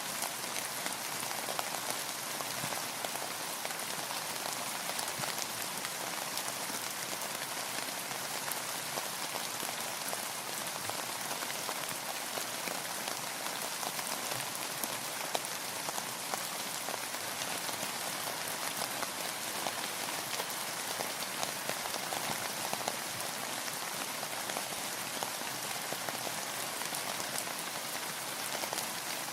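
Steady rainfall: an even hiss of rain with many small drops pattering and ticking on a surface.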